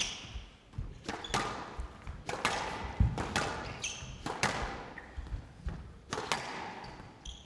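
Squash rally: the ball cracks off the rackets and smacks off the court walls about once a second, with the loudest strike about three seconds in. Short shoe squeaks on the court floor come between the shots.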